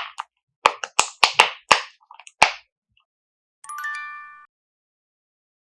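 A quick run of about eight sharp slaps, then a short bright chime of several stacked tones about four seconds in, followed by silence.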